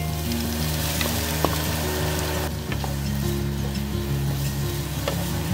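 Diced chicken hotdog sizzling in a hot frying pan with sautéed onions as it is tipped in and stirred with a wooden spatula, with a few light clicks.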